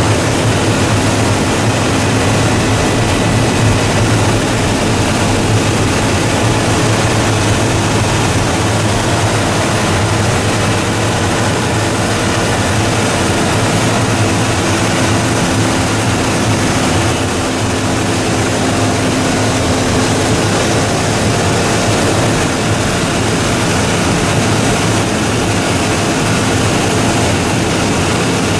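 Double-stage plastic recycling machine running, a steady, loud mechanical noise with a constant low hum.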